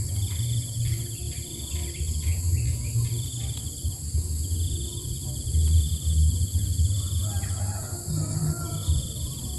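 Insects trilling in repeated high-pitched runs of half a second to two seconds, over a steady high insect drone, with a low rumble underneath.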